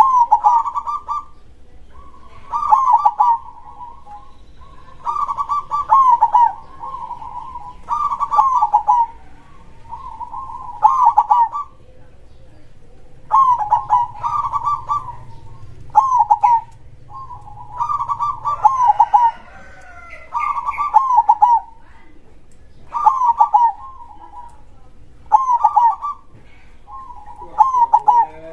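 Zebra dove (perkutut) singing: the same short phrase of rapid, bubbling coos repeated about every two and a half seconds. A fainter, higher chirping joins in around the middle.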